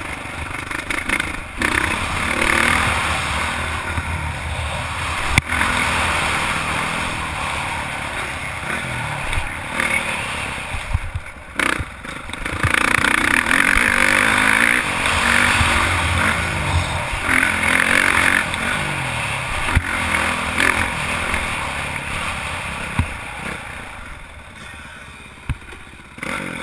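Honda CRF450 single-cylinder four-stroke motocross bike engine revving up and down as it is ridden hard, with a few sharp knocks along the way; it eases off near the end.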